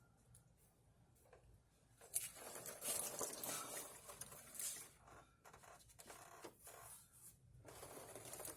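Irregular rustling and scraping of handling work under a vehicle, starting about two seconds in, followed by scattered small clicks and knocks.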